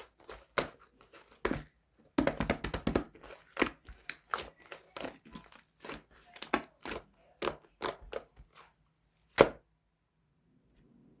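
Pink clay-type slime being pressed and squished by hand, making irregular crisp pops and crackles. There is a dense run of crackles a couple of seconds in and one loud pop about nine seconds in, and then the sound stops.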